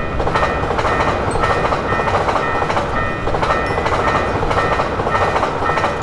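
Train passing at speed with a rhythmic clatter of wheels on rail joints. A short ringing tone repeats about twice a second over it, and the train noise stops abruptly at the end.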